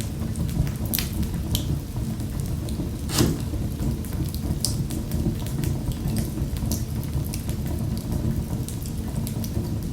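Fireplace fire crackling: frequent sharp crackles and pops over a steady low rumble of the flames, with one louder pop about three seconds in.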